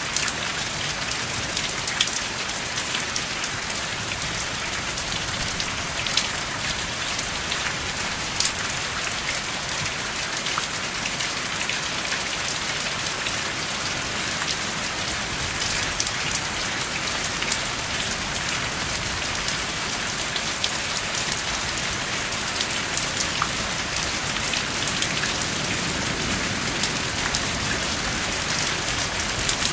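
Steady rain falling without thunder: an even hiss with many separate raindrops ticking sharply through it.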